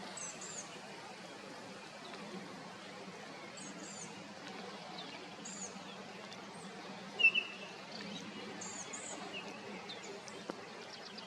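Small songbirds calling over a steady outdoor hush: short high notes repeat every few seconds, and a louder short mid-pitched note stands out about seven seconds in.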